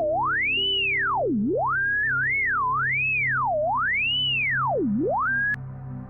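A computer-generated pure tone from a p5.js oscillator whose pitch follows a point riding around a drawn shape, gliding up and down in smooth arcs from low to high. The same pattern of sweeps repeats about every three and a half seconds, and the tone cuts off suddenly near the end, over soft background music.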